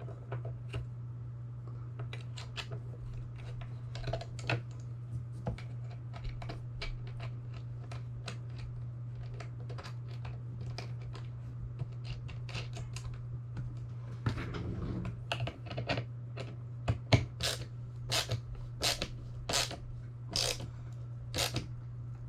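Scattered clicks and taps of hard parts being handled and fitted while assembling a shuttle accessory rig, coming faster and louder in the last few seconds, over a steady low hum.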